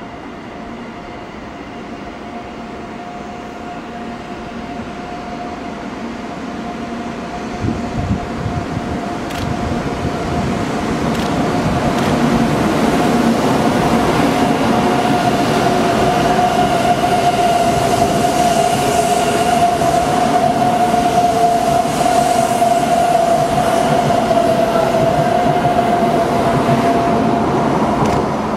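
E2 series Shinkansen train pulling out and running past, its running noise building over the first dozen seconds and holding loud as the cars go by, then dropping away at the very end. A steady whine runs through it all.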